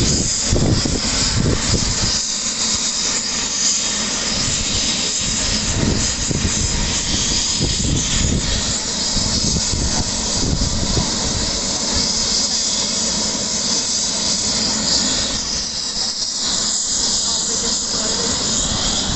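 Helicopter turbine engine and rotor running loud and steady for takeoff, a strong hissing whine over a low rumble.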